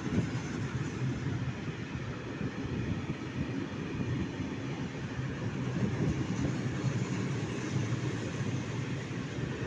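A train running past with a steady rolling rumble that stays even throughout.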